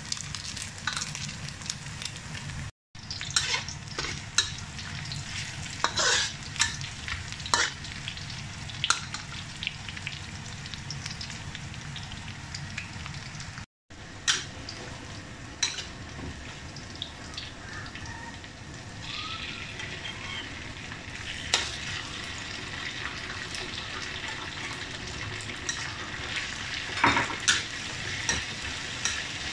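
Pork belly slices sizzling in hot oil in a wok, with a metal spatula scraping and clicking against the pan as the food is stirred. The sound cuts out briefly twice.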